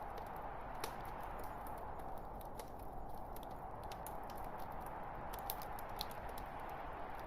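Log fire burning in a fireplace: a steady hiss of flames with frequent irregular sharp crackles and pops from the burning wood.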